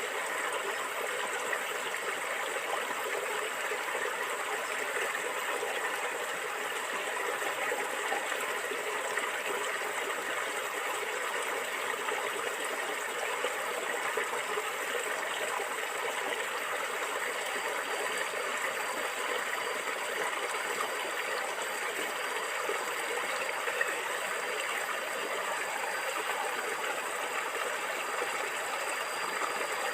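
Stream water flowing and gurgling steadily, an even rushing noise without pauses.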